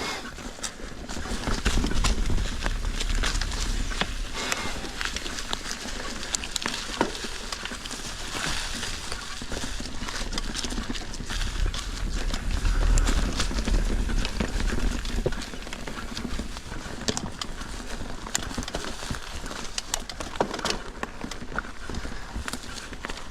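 Mountain bike ridden over rocky singletrack: tyres crunching over rock and the bike rattling and clattering with frequent sharp knocks, under a low wind rumble on the camera microphone that swells twice.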